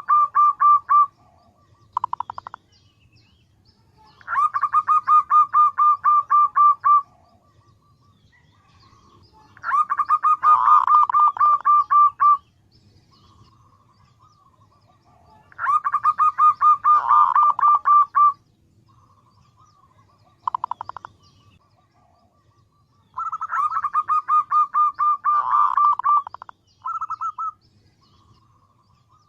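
Female zebra dove (perkutut) calling to males: bouts of rapid, evenly repeated staccato notes, each two to three seconds long, coming about every five to six seconds with short fragments in the pauses.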